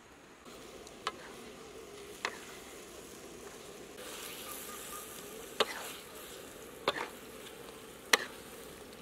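Chopped eel frying in a wok, with a steady sizzle that grows louder about four seconds in, broken by a few sharp knocks of the wooden spatula against the pan as the pieces are stirred.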